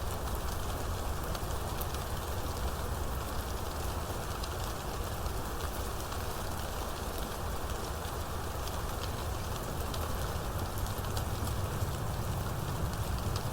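Steady rain falling, a continuous hiss with the fine ticking of individual drops hitting a surface, over a steady low rumble.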